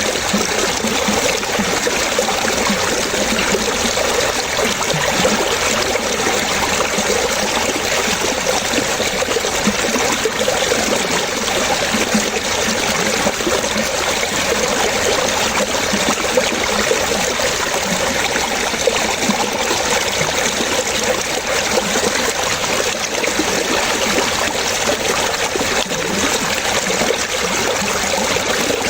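Water running and splashing in a steady, unbroken stream, like a brook or small cascade.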